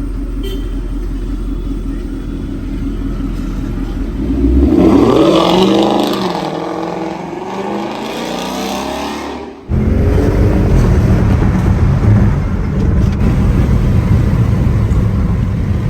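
Car engine revving hard, its pitch rising and falling repeatedly from about five seconds in. About two thirds of the way through the sound cuts off abruptly and comes back as a louder, steady engine and road drone.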